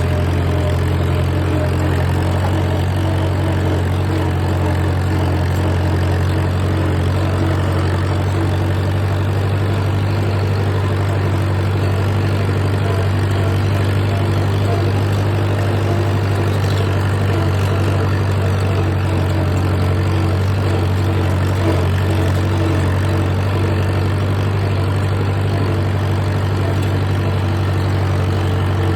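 A vehicle engine running steadily at a constant deep, low pitch, with no revving.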